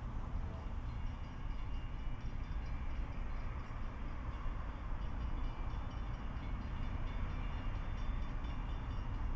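A train running with a steady low rumble, with faint high-pitched tones over it from about a second in.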